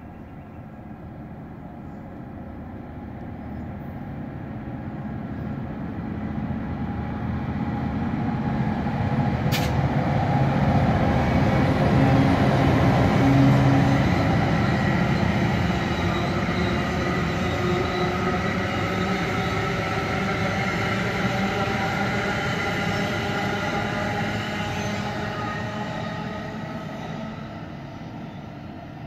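Diesel commuter train approaching and passing close by. The locomotive's engine and the wheels on the rails grow louder to a peak about 13 seconds in, then the coaches rumble steadily past and the sound fades near the end.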